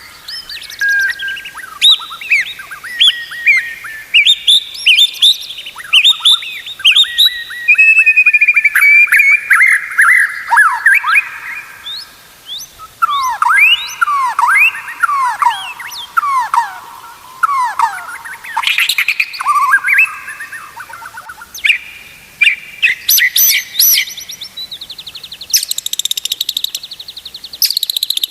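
White-rumped shama (murai batu) singing a long, varied song: quick whistled notes, up- and down-slurred phrases and fast trills one after another, with a dense, buzzy rattling phrase near the end.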